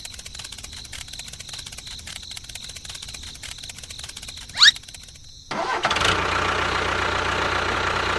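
A small motor on a DIY mini tractor rig: a faint rapid ticking, then a short sharp rising squeal. About five and a half seconds in, the machine starts running loudly and steadily.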